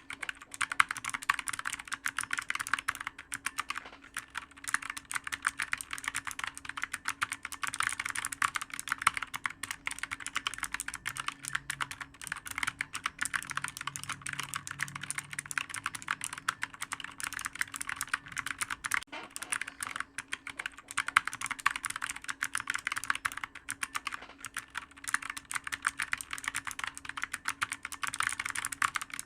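Continuous fast typing on a clicky computer keyboard, the keystrokes coming in a dense, unbroken stream, with a faint steady hum underneath.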